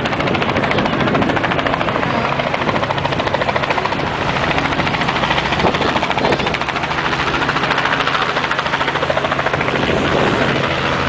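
Helicopter running overhead, its rotor blades giving a steady rapid chop over a low engine hum.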